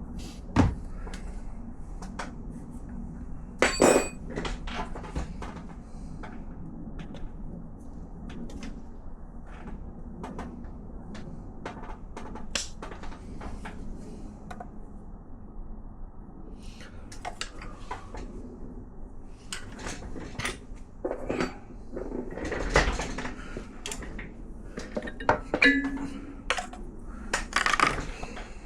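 Metal hand tools clinking and knocking against a motorcycle engine and each other as it is worked on, with one loud ringing metal clink about four seconds in and quicker bursts of clicks near the end.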